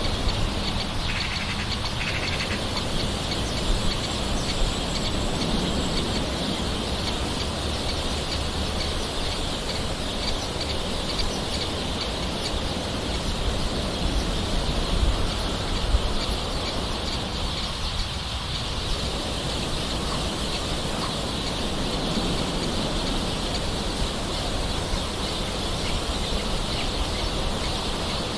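Steady rain with birds calling over it.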